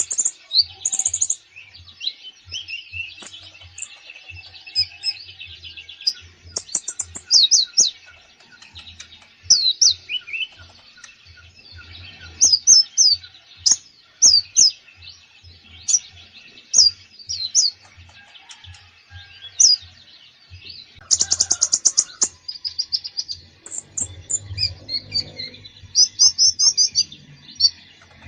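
A konin songbird singing persistently: a varied run of high chirps, quick slurred whistles and rapid trills, with a dense burst of trilling about two-thirds of the way through. This is 'full isian' song, packed with phrases the bird has copied from other species.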